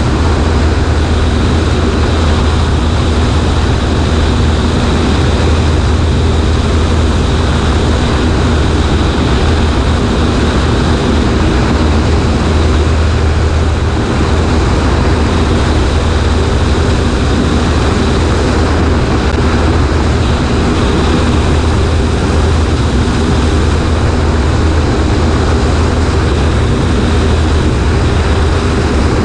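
Cessna 140A's piston engine and propeller running steadily in flight, heard through loud wind rush on a wing-mounted microphone.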